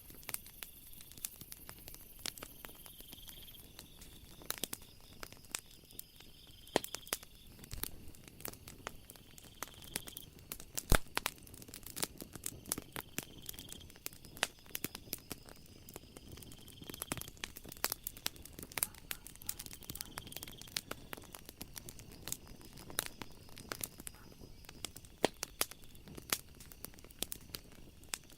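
Wood fire crackling with many sharp pops, one much louder about eleven seconds in, over a soft hiss. A short high chirp recurs every three or four seconds behind it.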